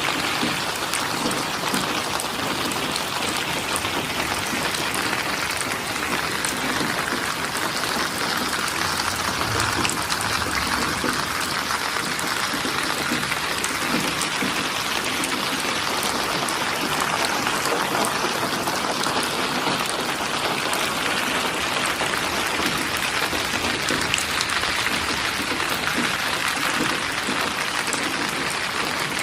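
Steady rainfall, a dense patter of raindrops on surfaces.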